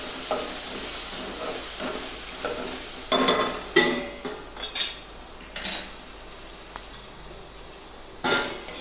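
Dal tempering (vaghar) sizzling in hot oil in a steel pan on a gas stove, strongest for the first few seconds. Sharp metallic clinks follow as a steel plate lid and steel tongs are set down on the pan, several times, the last near the end, with the sizzle quieter under the lid.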